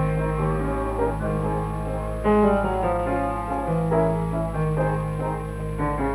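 Background music: a piano playing a light melody with steady moving notes.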